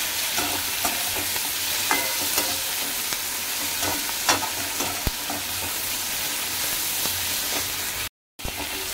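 Onion, tomato, ginger, garlic and cashews sizzling in oil in a kadhai, stirred with a metal slotted spatula that scrapes and clicks against the pan. The sound cuts out briefly near the end.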